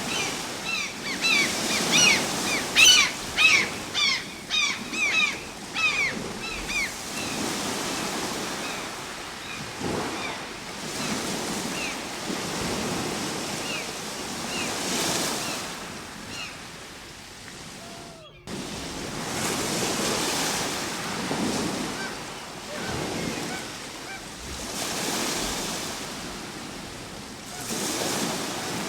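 Ocean waves washing onto a shore, surging and falling back every few seconds. Over the first seven seconds or so a flock of birds gives a flurry of short, sharp calls that thin out and stop. Just past halfway the sound drops out for a split second and comes back at once.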